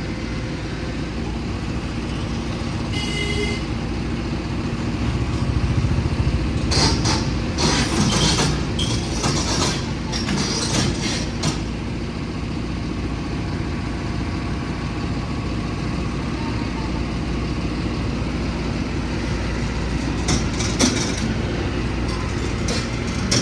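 Heavy vehicle engine running steadily, with low road rumble. A brief high tone sounds about three seconds in, and bouts of rattling clatter come between about seven and eleven seconds and again near the end.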